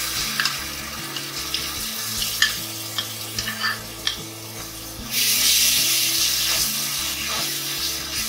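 Spice paste sizzling and crackling as it hits hot oil with fried onions in a pan, with scattered sharp pops. The sizzle grows louder about five seconds in, and a spatula stirs the paste near the end.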